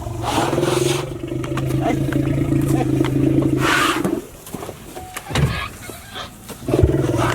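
Safari jeep engine running steadily, with two short noisy bursts over it. The engine sound drops away a little after four seconds and comes back near the end.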